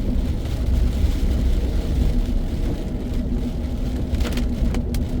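Car cabin noise while driving: a steady low engine and tyre rumble, with a few brief clicks about four seconds in.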